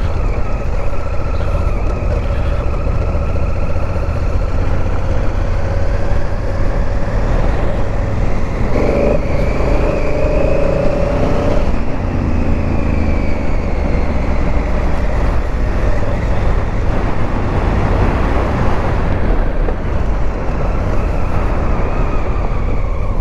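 Honda Africa Twin motorcycle engine running under way, with heavy wind rumble on the microphone. The engine pitch climbs through the middle and eases off again, with a louder steady hum for a few seconds around the middle.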